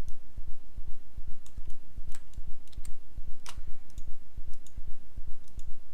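Computer mouse and keyboard clicks, scattered single clicks about a second apart, over a low pulsing rumble.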